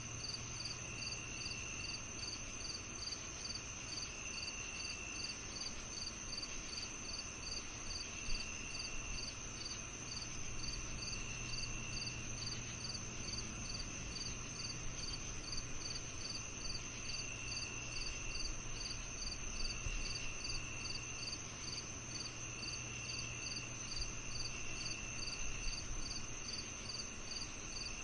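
A chorus of crickets and other night insects. One sings a continuous high trill, another chirps steadily at about two to three chirps a second, and a lower trill comes in one-second bursts every few seconds. A faint steady low hum lies underneath.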